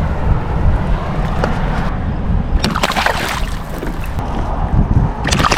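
Water sloshing and splashing at the side of a kayak over a steady low rumble, with a louder splash about two and a half seconds in and another near the end.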